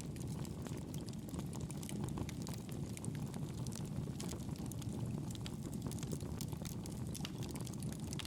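Campfire burning with steady crackling: many small sharp pops and ticks over a low, even rumble of the flames.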